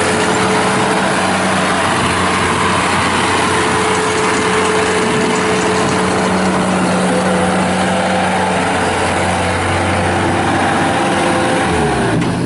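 Bobcat T190 tracked skid steer's turbocharged Kubota V2607 diesel running steadily at speed. Near the end the pitch drops as the engine slows.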